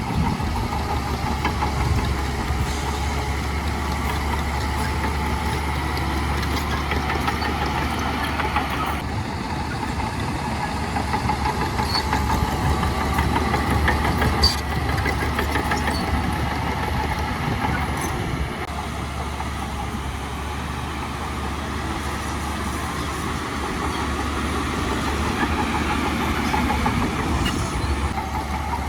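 Heavy diesel machinery engine running steadily, with a few sharp knocks around the middle.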